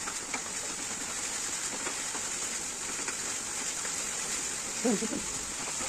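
Paneer and vegetables sizzling steadily as they fry in a kadai on a gas stove, with faint scrapes and taps of a wooden spatula stirring them. A short wavering tone breaks in about five seconds in.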